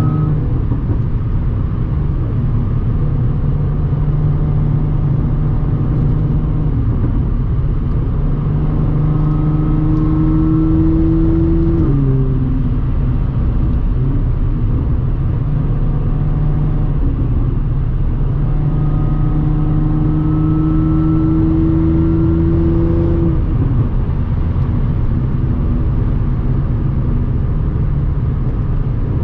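Audi S4 B8.5's supercharged 3.0-litre V6, with an AWE exhaust and test pipes, droning steadily at cruise with the supercharger whining. Twice the pitch climbs slowly under acceleration, about 8 and 19 seconds in, then drops suddenly as the throttle comes off or a gear changes.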